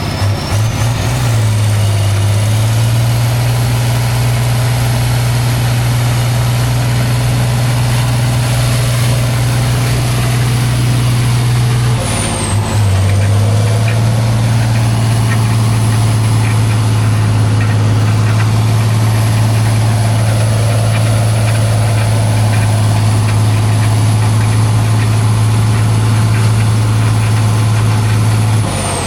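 Heavy truck engine held at high, steady revs with a thin high whine. It drops off briefly about twelve seconds in, then climbs back and holds until near the end.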